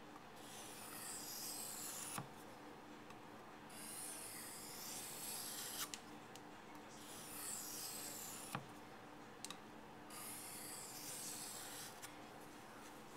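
Steel knife blade being drawn across a wet waterstone in four long strokes of about two seconds each, with short pauses and a light click between strokes. The edge is being worked on the stone to remove a burr.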